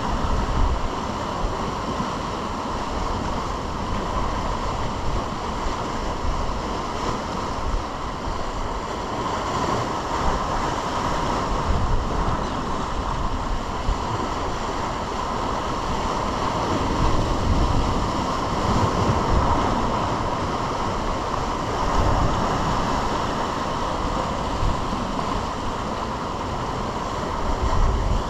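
Ocean surf washing steadily, with wind gusting against the microphone.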